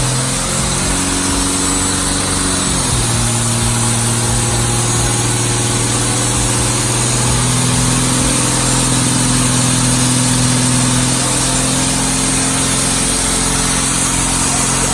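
Truck engine held at steady high revs through a burnout, its pitch stepping a few times over the run, with a broad hiss of spinning tyres and surroundings underneath.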